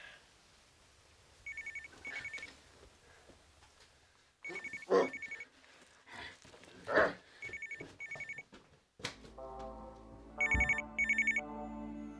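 A telephone ringing in double rings, each pair of short rings repeating about every three seconds. Two loud, short noises break in around five and seven seconds in, and music with sustained chords starts about nine seconds in beneath the ringing.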